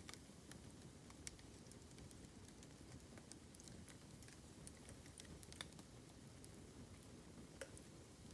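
Burning bamboo crackling faintly, with irregular sharp crackles and small pops over a low steady rumble.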